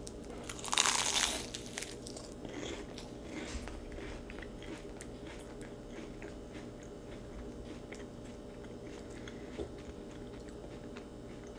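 A bite into a crisp, flaky cheese pastry (cheese börek) crunches about a second in, followed by chewing with many small crackles of the pastry.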